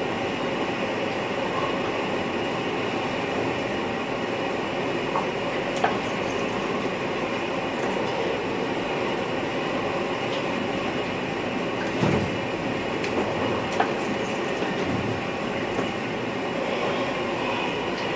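NS VIRM double-deck electric train running, heard inside the driver's cab: a steady rumble of wheels on rail with a few sharp clicks and knocks, the loudest a low thump about twelve seconds in.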